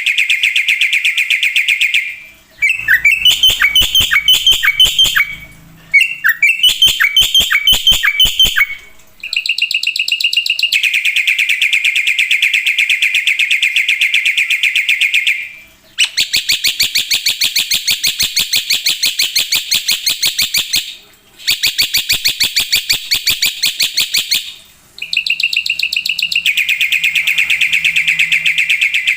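Black-winged myna (jalak putih) singing loudly in long phrases of fast, rattling trills and chatter, each phrase lasting a few seconds, with short breaks between them.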